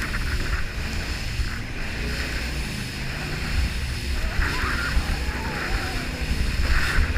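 Jet boat running on a river, its steady rush of engine and water overlaid by wind buffeting the microphone.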